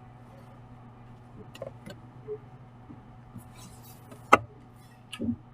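Pencil working on paper: a few light taps and a brief scratching stroke, with one sharp click about four seconds in, over a steady low hum.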